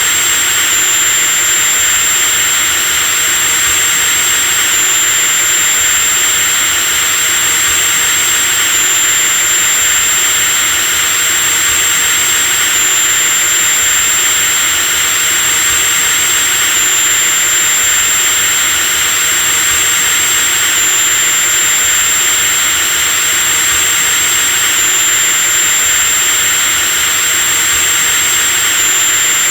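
Electric power drill running continuously with a steady high-pitched motor whine over a hiss, the whine shifting slightly in pitch about every four seconds.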